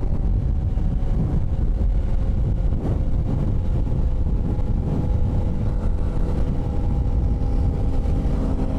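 Motorcycle running at a steady speed while being ridden, its engine holding an even drone under heavy wind rumble on the camera microphone.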